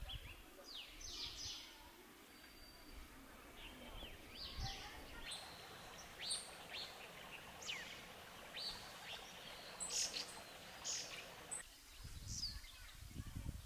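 Small birds chirping: many short, high notes that mostly sweep downward, scattered through, over a faint outdoor background hiss.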